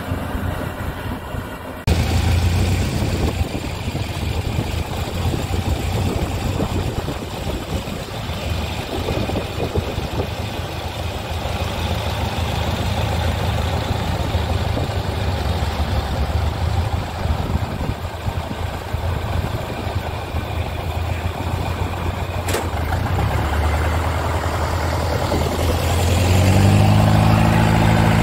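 Yanmar rice combine harvester's diesel engine running steadily, jumping louder about two seconds in and settling into a clearer, louder hum near the end.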